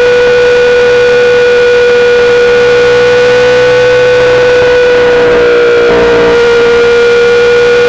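2008 Yamaha R6 inline-four engine through a full SC-Project exhaust, running loud at steady high revs with a constant high-pitched note that sags briefly about six seconds in, then picks back up.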